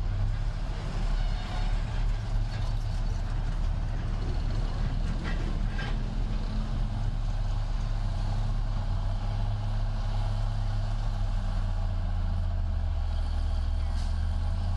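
Heavy diesel construction machine engine running steadily with a low drone.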